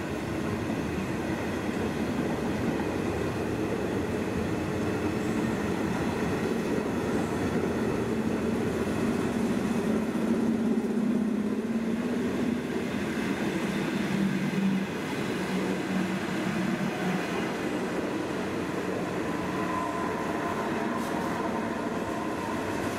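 SJ passenger coaches of a loco-hauled train rolling past at low speed, a steady rumble of wheels on rail with some faint clicking over the rail joints.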